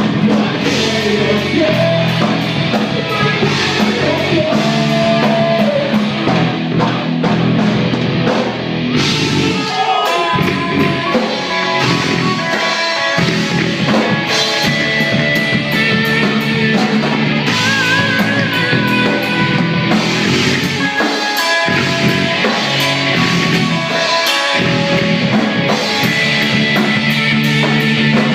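Rock band playing a song live, with guitar and drum kit; the bass drops out briefly a few times.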